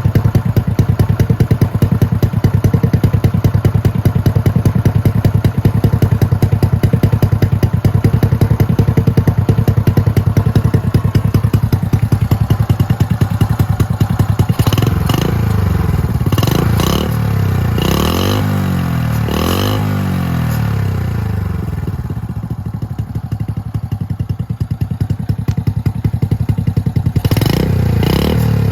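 Motorcycle engine idling loudly through an aftermarket muffler with the baffle removed, a steady pulsing beat. About halfway through, the throttle is blipped several times in quick revs that rise and fall, then the engine settles back to idle and is revved again near the end.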